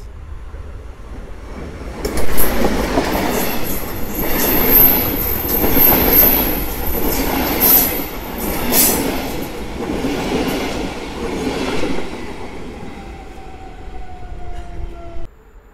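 A locomotive-hauled double-deck passenger train passes close by at speed, loudest a couple of seconds in and fading after about twelve seconds. The wheels give a high thin squeal, and there are a few sharp clacks over rail joints. The sound cuts off suddenly near the end.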